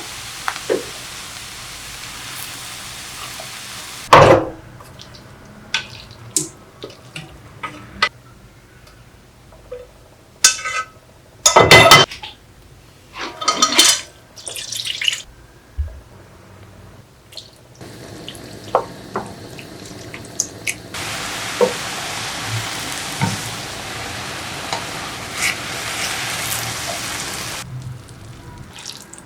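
Kitchen cooking sounds: a steady sizzle of food frying in a pan at the start and again through the second half, broken by utensil and dish knocks and clatters. The loudest are a sharp clatter about four seconds in and a run of loud clanks between about ten and fifteen seconds in.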